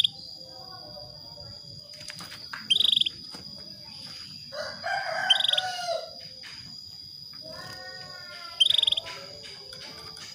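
Female canary giving short, rapid-pulsed calls, three times, about three seconds apart: the calls a hen in breeding condition uses to draw a male into song. A lower, longer wavering call sounds about halfway through.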